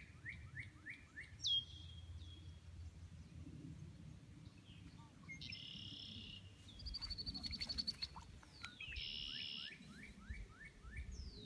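Songbirds singing: a falling whistle followed by a quick run of about five short notes, heard twice, with a buzzy note and a fast trill in between, over a faint low background noise.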